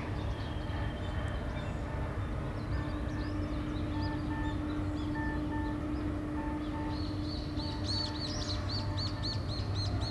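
Outdoor shipyard ambience: a steady low machinery hum with a held tone above it, and faint short paired tones repeating about once a second. In the last three seconds a bird gives a quick run of high, repeated chirps, about three a second.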